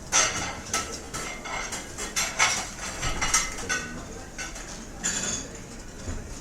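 Dishes and cutlery clattering: a rapid series of clinks and knocks of plates and silverware, louder near the start and again about five seconds in, over a steady restaurant background hum.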